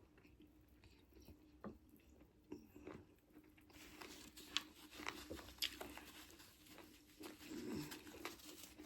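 Faint chewing and wet mouth clicks of someone eating, starting about a third of the way in, over a faint steady hum.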